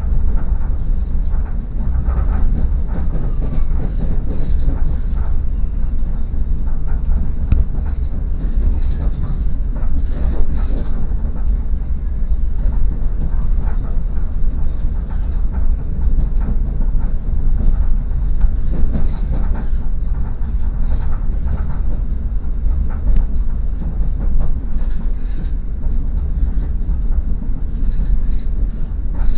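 A moving passenger train, heard from inside the carriage: a steady low rumble of the wheels running on the rails, with faint irregular clicks above it.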